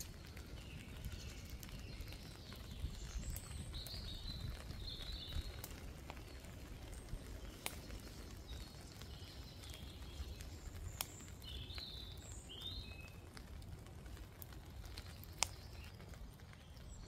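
Woodland birds singing in short high chirping phrases at intervals, over a steady low rumble, with a few sharp ticks scattered through.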